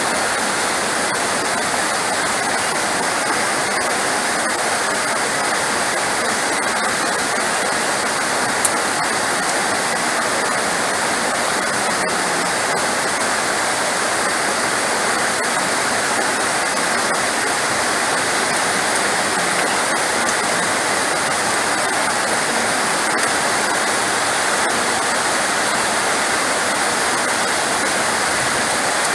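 Heavy rain falling, a steady dense hiss with no thunder, and one brief click about eight and a half seconds in.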